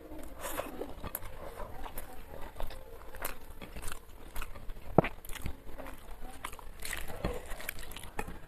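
Close-miked chewing of a mouthful of rice, with irregular wet mouth smacks and clicks and one sharper click about five seconds in. Fingers mixing rice on a plate.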